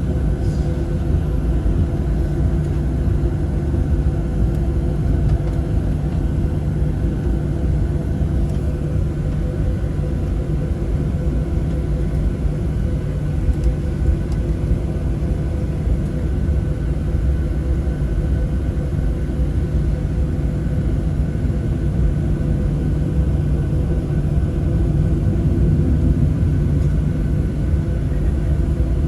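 Boeing 737-700's CFM56-7B jet engines running, heard from inside the cabin as a steady low rumble with a constant engine hum that holds level.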